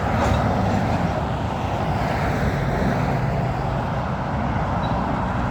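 Freight train cars rolling past on the rails, a steady rumble, as the train gets under way again after a stop.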